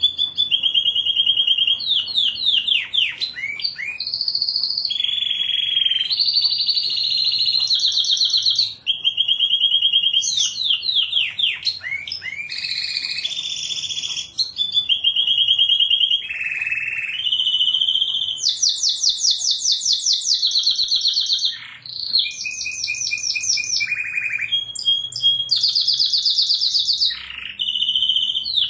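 Canary singing one long continuous song. It runs through a series of fast trills of rapidly repeated notes, changing pitch and pattern every second or two, with quick downward-sweeping notes between the trills.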